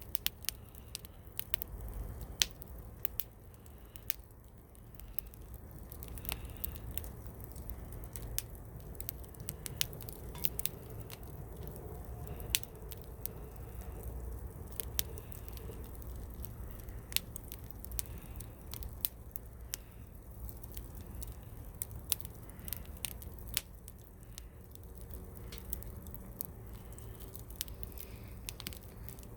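Wood campfire crackling, with many sharp, irregular pops and snaps over a low steady rumble.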